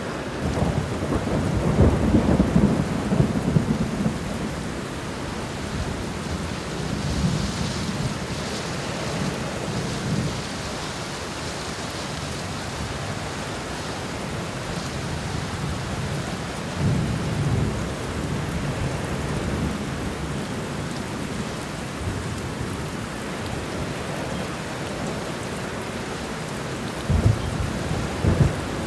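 Thunderstorm: steady heavy rain with low, rolling thunder rumbles swelling several times, and a sharper, closer thunder crack near the end.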